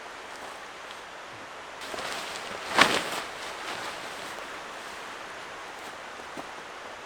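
A river flowing steadily close by, with one brief, louder rustle about three seconds in.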